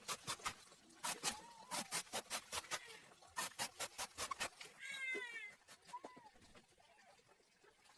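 A cat meowing, with one clear falling meow about five seconds in and fainter mews elsewhere, over a run of quick sharp clicks that stop about halfway through.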